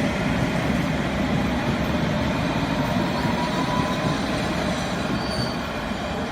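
Train running on rails: a steady rumble of wheels on track, with a faint wheel squeal about three seconds in, easing slightly toward the end.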